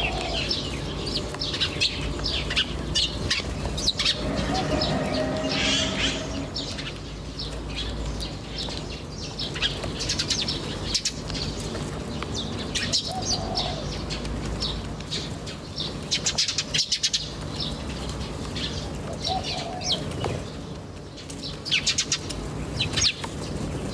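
Many small birds chirping and twittering rapidly and continuously, with a few lower calls now and then and a low steady hum underneath.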